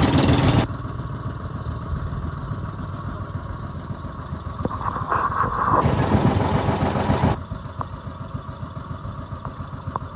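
Boat engine running steadily. It is loud with wind-like hiss for the first half second, louder again in the middle, and drops suddenly twice.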